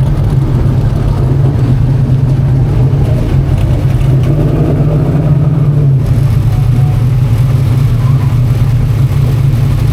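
Dirt modified race car engines running with a loud, steady low drone.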